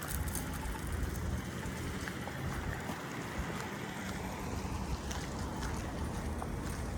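Steady city street noise: a low rumble of traffic with a constant hiss and a few faint clicks.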